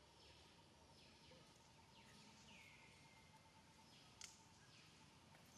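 Faint forest ambience: bird calls, high whistles that drop in pitch, repeating several times over a faint steady whine. A single sharp click about four seconds in.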